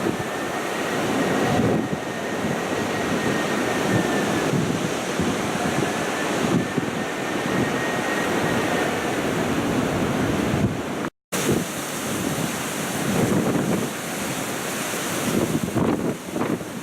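Strong storm wind gusting and buffeting the microphone, with a faint high whistle that rises and fades twice in the first half. The sound cuts out completely for a moment about eleven seconds in.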